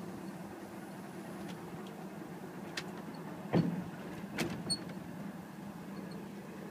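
Steady low hum of a passenger train running, heard from inside a sleeper compartment, with a few sharp knocks and clicks in the middle, the loudest about three and a half seconds in.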